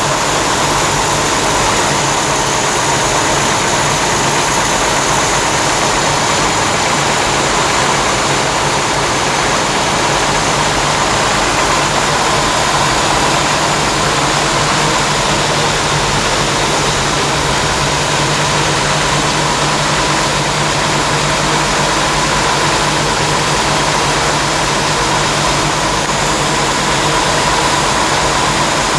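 Jeep 4.2-litre straight-six engine idling steadily, with no revving.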